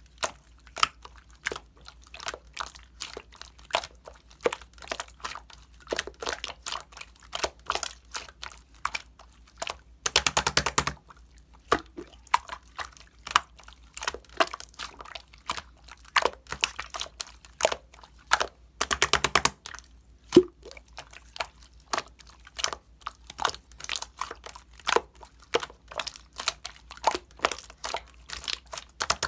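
Close-up irregular clicks, taps and crunchy crackles in a small room. There is a denser crackly stretch about ten seconds in and another near nineteen seconds.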